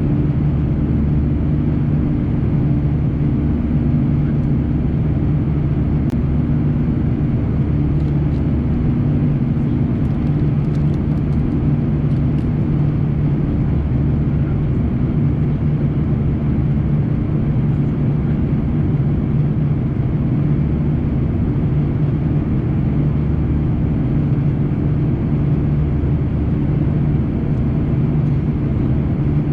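Steady cabin drone of an Airbus A340-300 in its climb after takeoff: the four CFM56 engines' low hum over the rush of airflow. A few faint light ticks sound between about six and thirteen seconds in.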